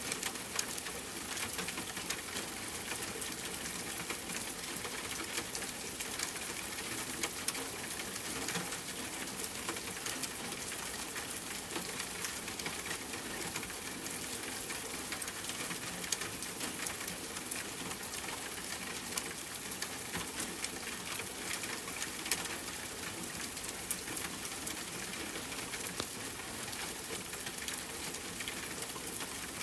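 Steady rain falling, with an even hiss and many individual drops ticking sharply on a surface.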